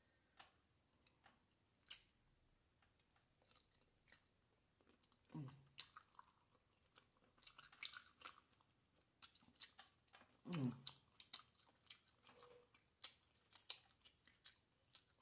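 Quiet, close-up chewing of steamed shrimp, with wet lip smacks and mouth clicks scattered throughout. Two brief low hums of the voice come about five seconds in and again about ten and a half seconds in.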